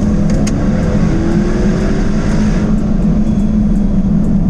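Jaguar F-Type's 5.0-litre supercharged V8 running steadily under way, a constant low drone with road rumble, heard from inside the moving car. A rush of wind or road noise swells for a second or two partway through.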